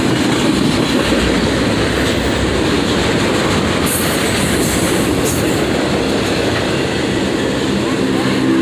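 A train passing close by, with a steady loud rumble of wheels on rail and clickety-clack. There are brief high-pitched hissing squeals about four and five seconds in.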